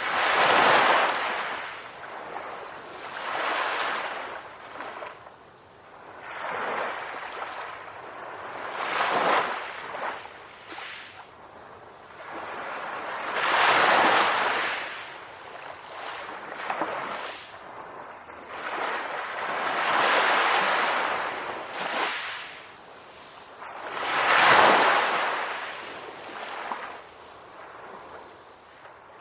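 Ocean waves breaking on a shore and washing in, each surge of surf swelling and fading every few seconds, with three larger breakers standing out.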